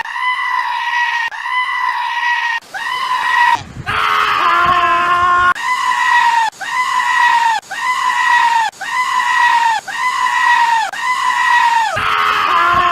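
A goat screaming over and over, about one high, piercing cry a second. Each cry holds a steady pitch and drops at the end. Around the middle, lower bleats from another animal overlap the cries.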